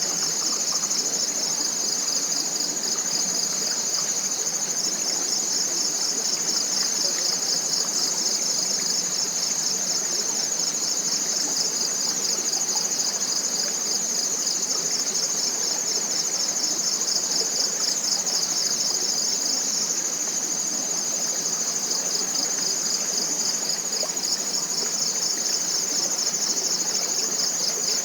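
Forest insect chorus: a continuous high-pitched trill made of rapid, even pulses, over a soft steady rushing hiss.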